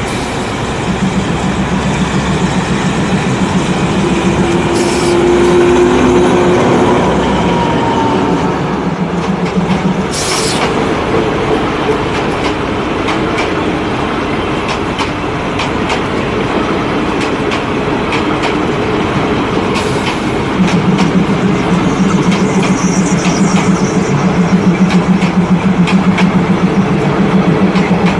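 Passenger train running along the track, with rumbling wheel noise and a low pulsing drone that fades about a third of the way through and returns louder near the end. A few short sharp clicks come and go.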